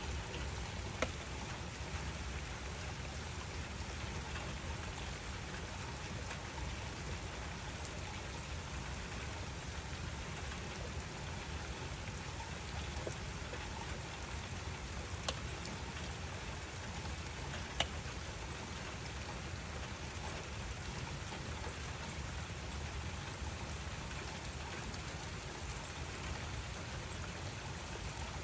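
Steady rain falling, an even hiss with a few sharp single clicks of drops, about a second in and twice more in the second half.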